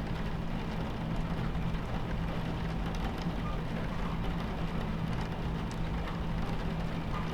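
Steady rumble and low hum inside a moving train carriage, with rain pattering on the window.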